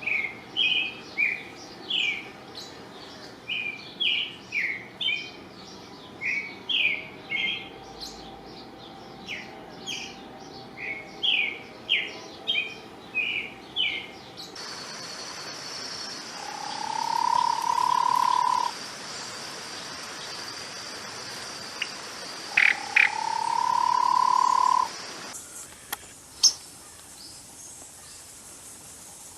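Wild forest birds singing: a quick stream of short chirping notes for about fourteen seconds. After a cut, a steady high insect buzz runs under two long, low, slightly rising calls and a few sharp high notes.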